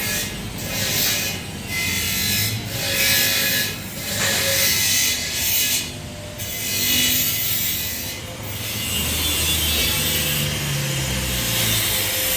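Hand sawing: rasping back-and-forth strokes, about one a second, settling into a steadier rasp over a low hum for the last few seconds.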